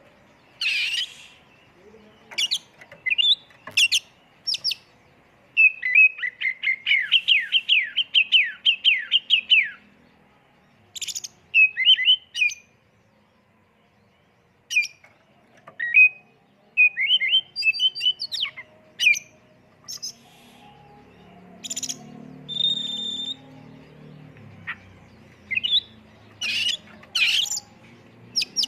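Oriental magpie-robin (kacer) singing a varied song of sharp chirps and whistles. About six seconds in comes a fast rapid-fire run of descending notes, about four a second, and there is a short pause near the middle.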